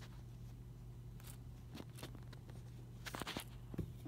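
Faint scattered clicks and light handling noises of small objects being moved and set in place, over a steady low hum.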